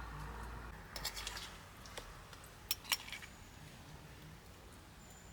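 Cutlery clinking against dishes: a cluster of light clinks about a second in and two more near the three-second mark.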